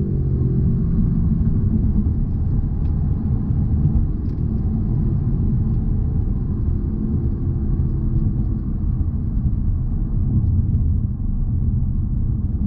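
2020 Jaguar XE P300 driving, with a low, steady road rumble and the hum of its 2.0-litre turbocharged four-cylinder. The engine note drops a little right at the start, then holds fairly level.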